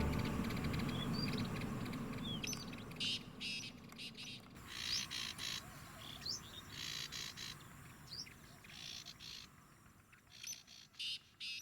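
Wild birds calling: scattered short chirps and brief rising whistled notes, over faint outdoor background.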